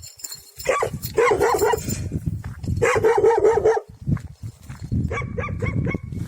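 A dog barking in two quick runs of barks, each about a second long, with fainter calls a few seconds later.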